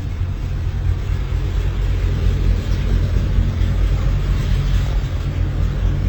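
Classic car engine running with a steady low rumble.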